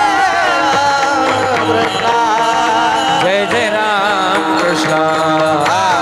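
Marathi devotional kirtan music: a singer draws out long, winding melodic phrases over a steady held drone, with mridang drumming beneath.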